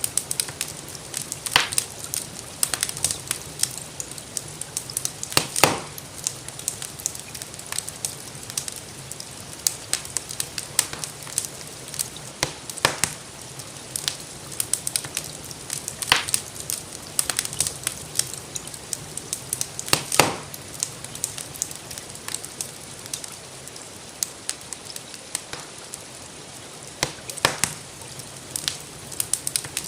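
Wood fire crackling, with sharp pops at irregular intervals, a few louder snaps among many small ticks, over a steady hiss of rainfall.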